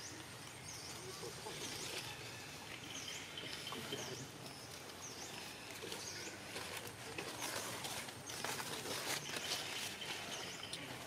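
Outdoor ambience with a small bird chirping over and over, short high chirps every second or so. Around the middle there is a brief patch of rustling.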